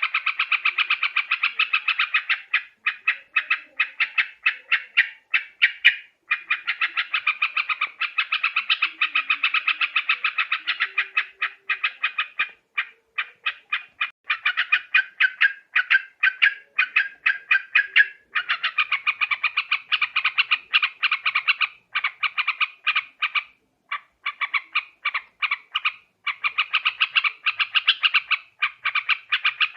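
Yellow-vented bulbul (trucukan) calling: rapid, chattering runs of short notes that go on almost without pause, broken by brief gaps.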